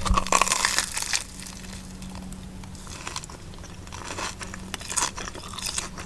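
Crunching bites into a crispy, sweet-potato-coated Korean corn dog, dense crackles at first, then sparser crunches as it is chewed.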